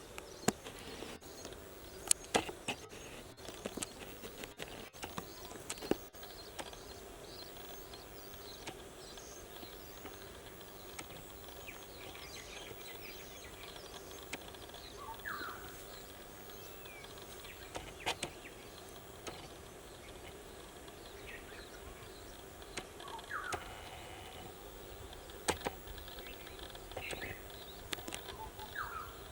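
Small birds chirping: a run of high, quick chirps and short rising calls every few seconds, over a steady background hum. Sharp footstep clicks and crunches come in a cluster during the first six seconds, with a few more later.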